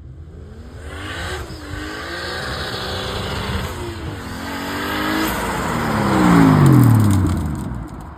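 A car accelerating hard past, its engine revving up through the gears with a dip in pitch at each shift, about a second in and about four seconds in. It is loudest as it goes by near the end, the engine note falling in pitch as it passes and fades.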